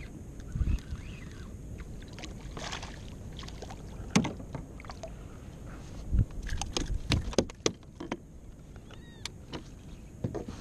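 Scattered knocks and clacks of gear handled on a plastic fishing kayak, with a cluster of quick knocks in the second half, over a steady low rumble of wind and water.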